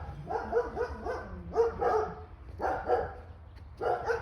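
A dog barking in four quick runs of short barks, each run lasting under a second.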